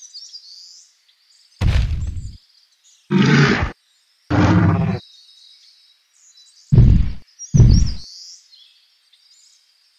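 Dinosaur roar sound effects: five short roars and growls, with birds chirping faintly behind them.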